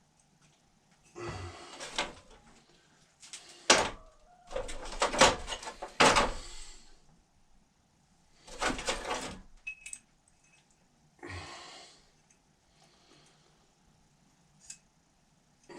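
Rummaging through tools and parts in a workshop: several short bursts of scraping and clattering with a few sharp knocks, separated by quiet pauses.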